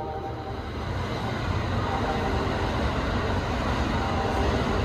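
Electric train running on the rails, a steady low rumble and rail noise that grows louder over the first couple of seconds, with a faint whine.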